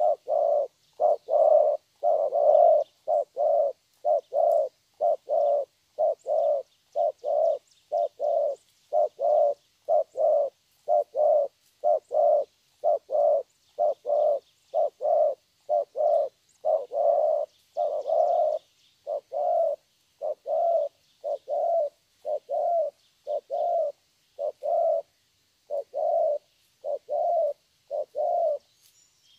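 Young spotted dove cooing over and over in the deep 'thổ' style, a steady string of low coo notes at about three every two seconds, with faint high chirps of small birds behind.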